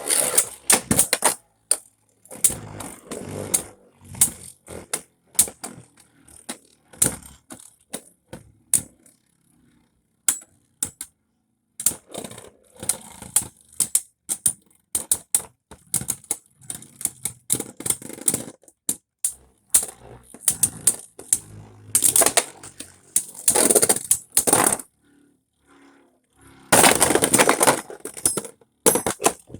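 Beyblade spinning tops clashing and clattering in a stadium: rapid runs of sharp clicks and knocks, in clusters separated by short pauses.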